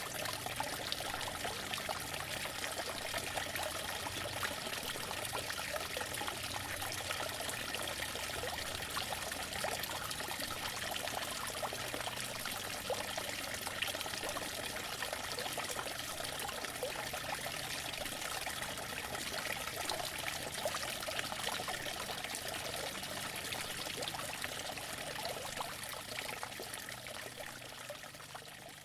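Outdoor water fountain running, its water splashing and trickling steadily, fading out near the end.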